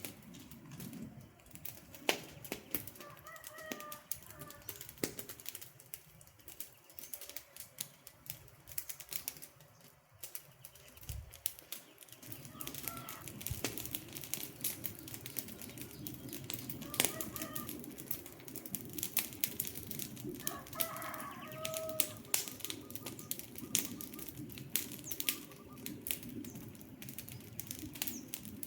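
Wood fire crackling and popping, with irregular sharp snaps over a low hiss. A few short bird calls come in every few seconds.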